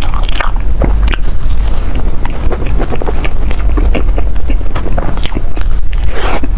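Close-miked ASMR eating: biting and chewing desserts, a dense run of small clicks and smacks over a steady low rumble.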